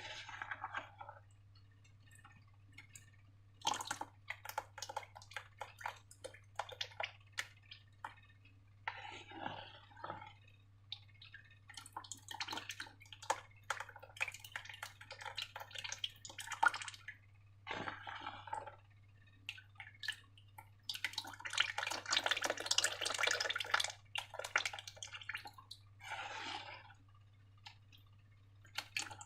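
Slime being squished and worked by hand: bursts of wet, sticky clicking and squelching, densest for a couple of seconds past the middle, with short pauses between bursts.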